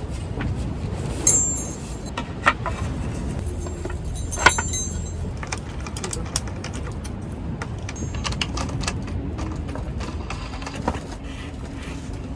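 Clatter of objects being handled: scattered clicks and knocks, with two sharp metallic clinks that ring briefly, about a second in and again about four and a half seconds in, over a steady low rumble.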